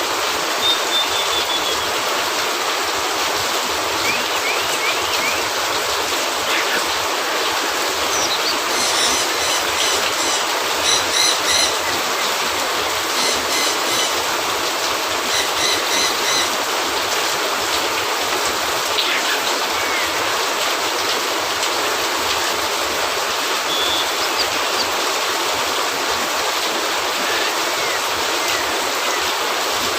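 Steady rain falling, a dense, even hiss. About a third of the way in comes a run of rapid, repeating high-pitched pulses, with a few brief high chirps elsewhere.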